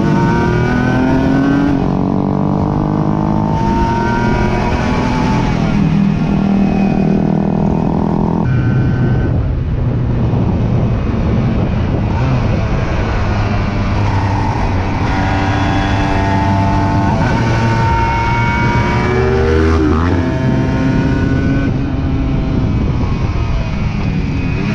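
Aprilia RS 125 single-cylinder motorcycle engine being ridden, its pitch climbing under acceleration and dropping back at each gear change, several times over.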